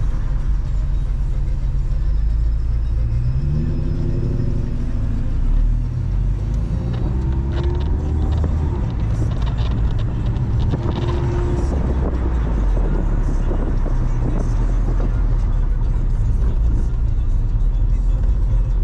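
Mazda Miata's four-cylinder engine under a steady low road rumble, its revs climbing about three seconds in and again around seven seconds, as when accelerating through the gears.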